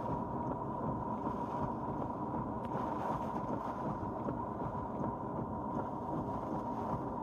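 Steady rush of hurricane wind with a low rumble, and a faint steady whine running through it.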